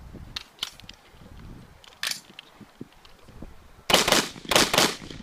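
Semi-automatic rifle shots: a single shot about two seconds in, then a quick string of louder shots near the end.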